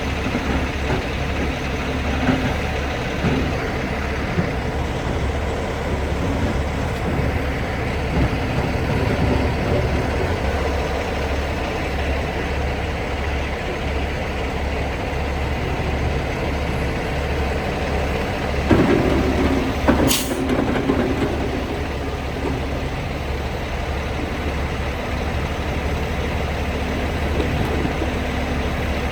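Logging truck's diesel engine running steadily with a low drone. About two-thirds of the way through comes a brief louder noise with one sharp click.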